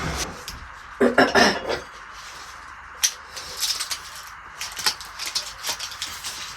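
Dishes and cutlery clinking: a louder clatter about a second in, then a run of light clicks and knocks.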